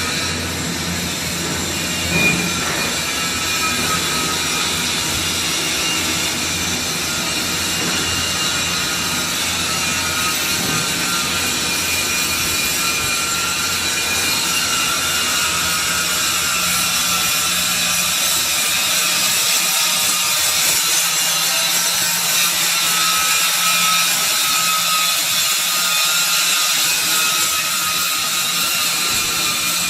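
Steady hissing machine noise, with one brief knock about two seconds in.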